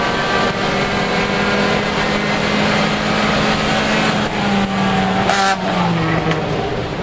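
Lexus IS300's 3.0-litre straight-six engine running hard under race load, heard from inside the cabin. The engine note holds steady, then drops in pitch in two steps in the last few seconds, with a brief rushing noise about five and a half seconds in.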